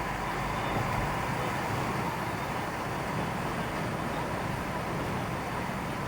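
Steady vehicle noise: a constant rumble and hiss that holds even throughout.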